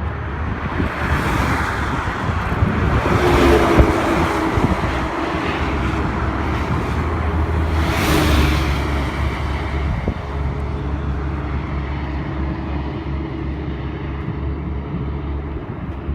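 Harley-Davidson Fat Boy's V-twin engine running through a Screaming Eagle exhaust, swelling louder twice, around four seconds in and around eight seconds in, then settling to a steadier lower run.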